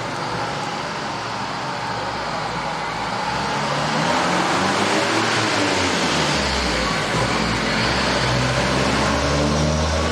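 A motor vehicle's engine running, with a shifting low hum and a hiss, getting louder about four seconds in.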